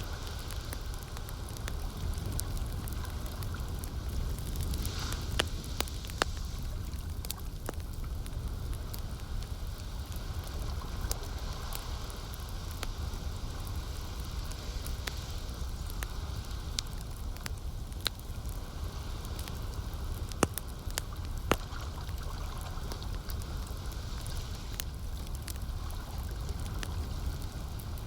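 Campfire crackling with scattered sharp pops, the loudest coming about five seconds in and again around twenty seconds in, over a steady low wash of lake water.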